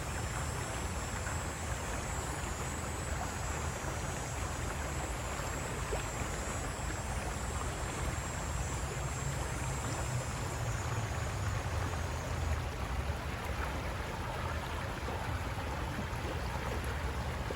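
River water rushing over rocks, a steady, even flow. A faint high-pitched hiss over it stops about two-thirds of the way through.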